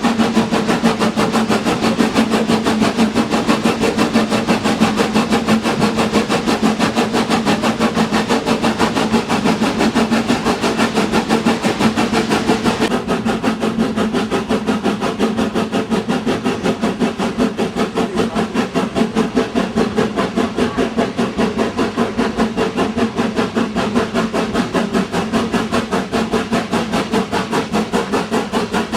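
A train running, with a steady hum and a rapid, even rhythmic beat that carries on without a break.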